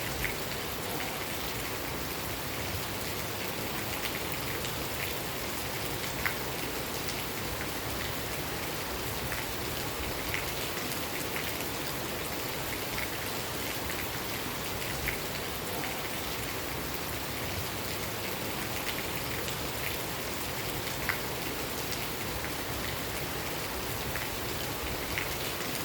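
Steady rain falling, an even hiss with scattered louder drops ticking on a surface, a few standing out sharply.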